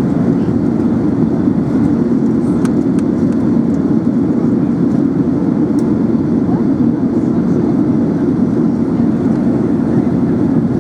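Steady cabin noise inside an Airbus A380 in flight: an even, unchanging rumble of engines and airflow, with a few faint clicks.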